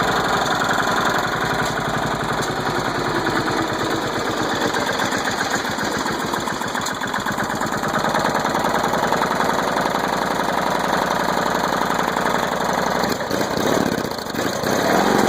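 Old riding mower's engine running steadily with a fast, even beat after being flooded with water; it dips briefly near the end.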